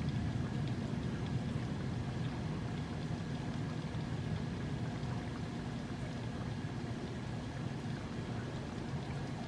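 Thunderstorm: a low rumble, loudest at the start and slowly easing, over the steady hiss of rain.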